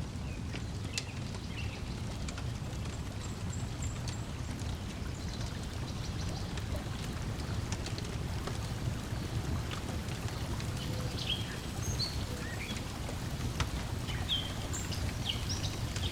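Wood fire crackling with scattered sharp pops over a steady low rush of lapping lake water and breeze, with small birds chirping, more often in the last few seconds.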